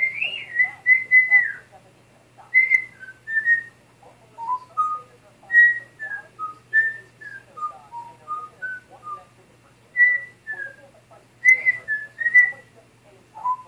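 African grey parrot whistling strings of short, clear notes in several phrases. Some runs step down in pitch from note to note, and one early note slurs downward.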